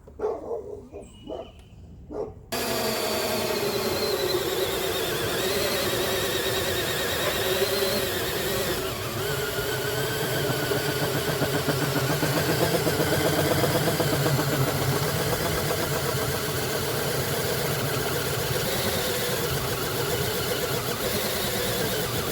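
Power drill fitted with a hole saw, running steadily under load as it cuts a hole; its motor whine wavers up and down in pitch. It starts abruptly a couple of seconds in.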